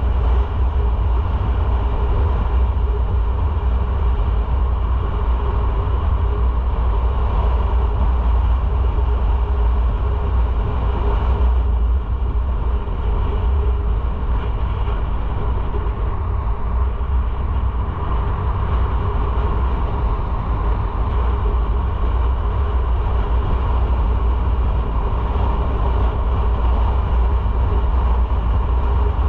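Motorcycle riding at a steady pace: engine running with wind and road noise, a constant low rumble that barely changes, with only a brief dip about twelve seconds in.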